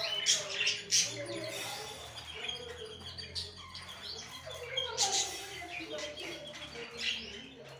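Pet birds chirping and calling, with sharp chirps clustered near the start and again about five seconds in.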